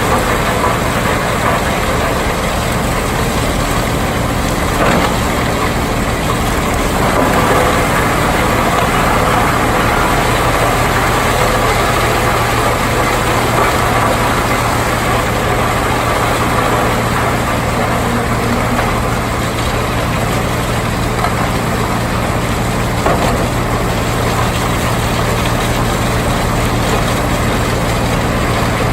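Heavy wood chipper engine running steadily under load with a low, even drone. Two brief knocks come through, one about five seconds in and one near the end.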